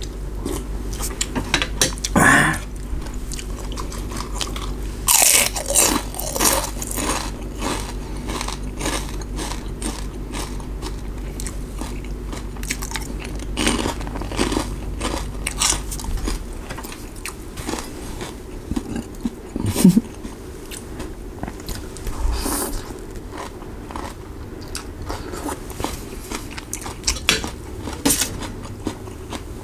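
A person chewing and biting mouthfuls of stewed beef noodle soup, with many short, sharp mouth noises scattered throughout.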